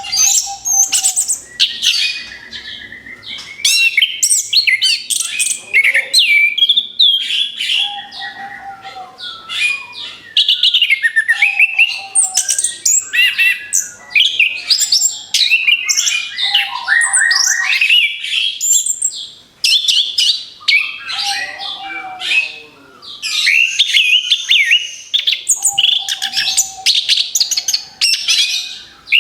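Orange-headed thrush (anis kembang) singing a rapid-fire, near-continuous run of varied song phrases: fast chirps, trills and gliding whistles, with a short lower note recurring every few seconds.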